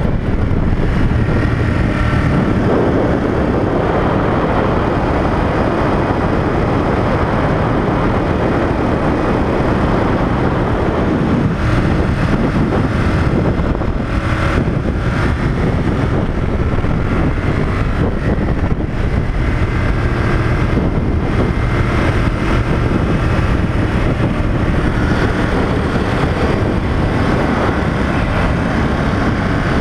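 Ducati Monster 1200 S's L-twin engine running steadily at cruising speed, mixed with wind noise, as the bike is ridden through its break-in period.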